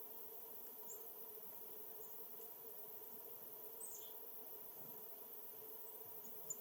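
Faint, scattered high chirps of small songbirds, about half a dozen short calls a second or so apart, the last the sharpest, over a steady low hum.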